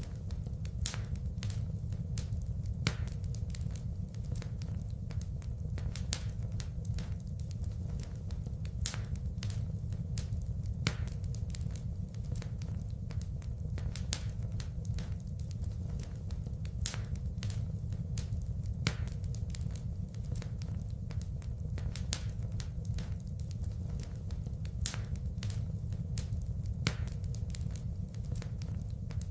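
Wood fire burning in a fireplace: a steady low rumble of flames with crackles and sharp pops scattered throughout.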